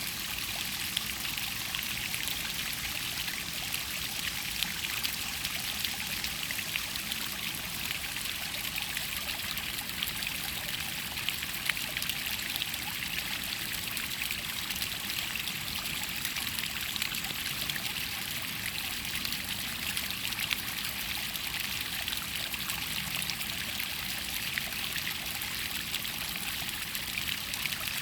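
Rain-fed water trickling and splashing over rock in a small mountain stream, a steady bright babble with many small droplet splashes.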